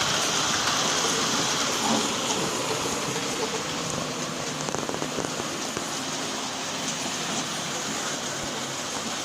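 Hornby 00 gauge model trains running around the layout: a steady whirring hiss from their small electric motors and wheels on the track.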